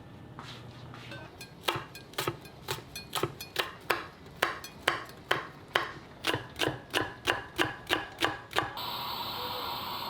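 Kitchen knife chopping on a cutting board in quick, even strokes, about two to three a second. The chopping stops near the end, and a steady hiss starts.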